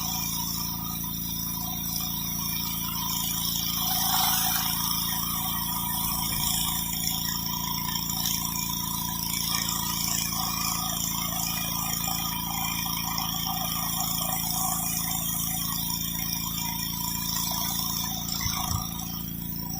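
Pressure washer's gas engine running steadily under a continuous hiss of high-pressure water spraying on concrete. The sound changes briefly near the end.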